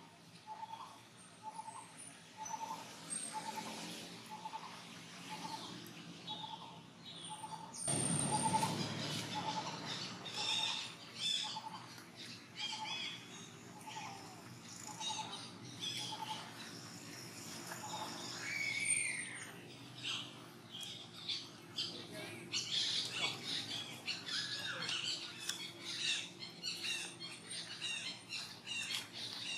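Birds calling outdoors: one bird repeats a short note a little under twice a second for about the first half, with higher chirps and squeaks scattered throughout. A loud burst of noise comes about eight seconds in.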